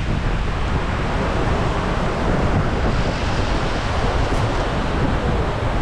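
Heavy rain pouring down, a loud steady hiss with a low rumble underneath.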